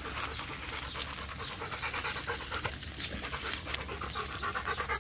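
A dog panting rapidly and steadily, close by.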